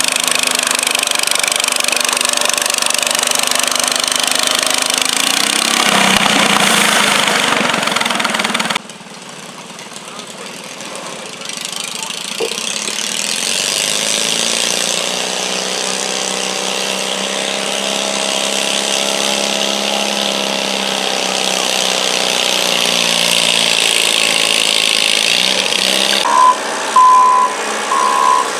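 Garden tractor engine running loudly during a pull, cutting off abruptly about nine seconds in. A few seconds later an engine runs again, its pitch rising and then falling. Short, even beeps come near the end.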